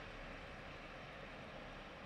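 Faint, steady rumble of a passenger train running away into a railway tunnel, slowly fading.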